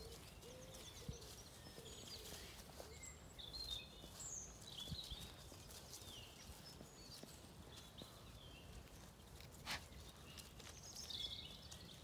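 Faint songbirds singing: scattered chirps and short whistled phrases, in a cluster a few seconds in and again near the end, over quiet outdoor background noise, with a few soft knocks.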